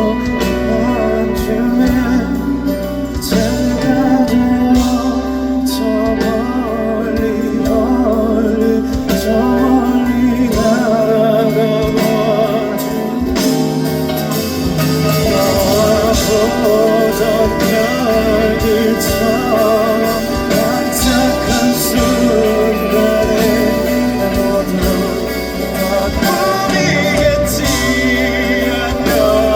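Live band music: a slow ballad played on guitars over bass and drums, with a male voice singing.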